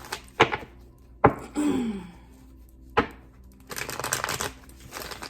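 Tarot cards handled on a table: three sharp taps or slaps of cards set down, spread over the first three seconds, then a short papery rustle of shuffling about four seconds in.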